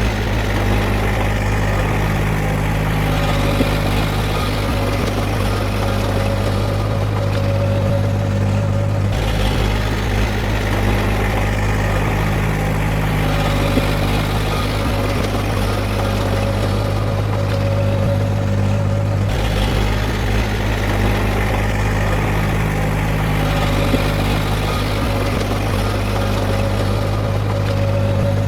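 Heavy diesel engine of earthmoving machinery running steadily with a deep hum, its sound changing about every ten seconds.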